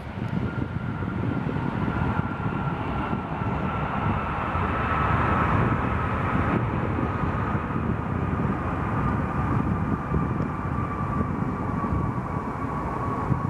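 Airbus A319-112 with CFM56 engines running down after landing: a steady rumble with a single whine that falls slowly in pitch.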